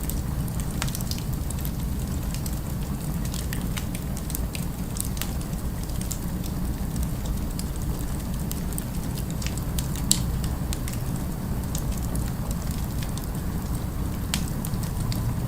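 Wood fire crackling, with scattered small pops and one sharper snap about ten seconds in, over a steady low rumble of city ambience.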